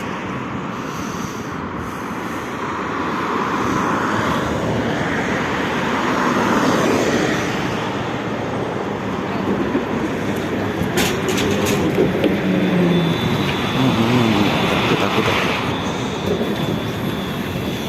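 Trolleybus interior noise while riding: steady road and body rumble with the whine of the electric traction drive. The whine wavers up and down in pitch near the middle, a thin high whine sets in about two-thirds of the way through, and there are a few sharp clicks about eleven seconds in.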